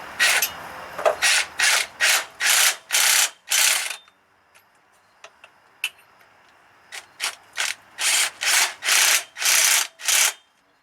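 Hand ratchet wrench being worked in short back-and-forth strokes, running down a bolt: a run of about eight ratcheting strokes, a pause of about three seconds, then another run of about eight, the later strokes in each run longer.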